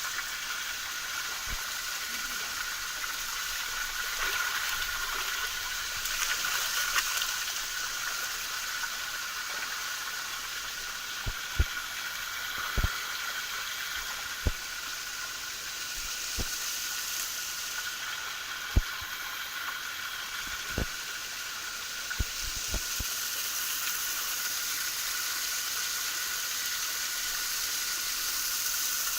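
Small waterfall: a steady, even rush of falling water. A scattering of short, dull low thumps comes through the middle stretch.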